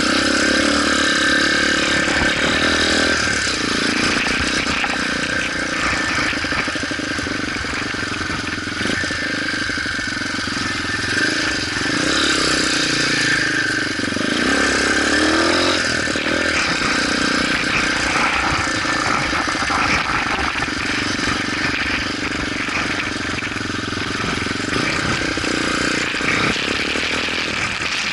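Motorcycle engine running under way, its pitch rising and falling with the throttle, over steady rushing noise.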